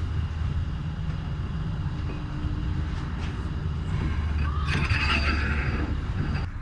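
Metal lathe running with a steady low hum while turning a small bushing. From about four and a half to five and a half seconds in, a rougher scraping sound as the cutting tool takes metal off.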